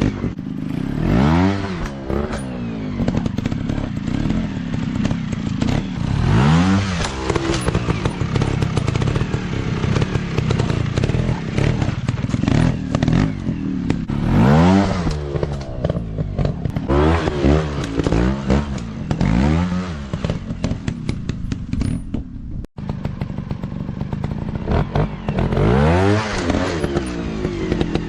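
Dirt bike engines running and revving hard again and again, each burst of throttle rising and falling in pitch over a steady engine note. The sound cuts out for a split second about two-thirds of the way through.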